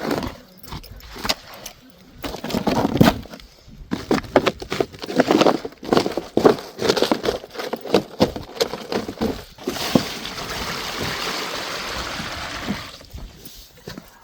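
Water buckets being handled and emptied into a pool: knocks, clatter and sloshing, then a steady pour of water from about ten seconds in, lasting about three seconds.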